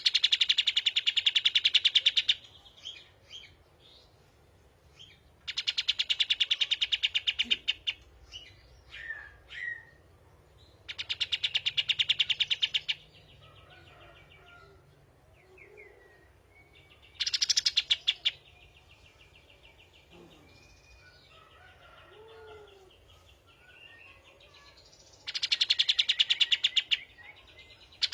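Songbird song: loud, rapid, high trills about two seconds long, repeated every five or six seconds, with short whistled notes and chirps between them.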